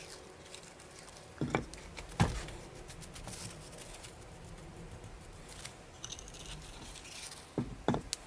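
Hand-work handling noises: a few sharp knocks, one about a second and a half in, another about two seconds in, and two close together near the end, over faint rustling and scraping.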